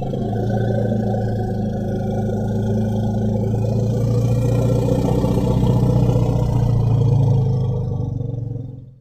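An elephant giving one long, low, drawn-out call with a steady pitch, which stops near the end.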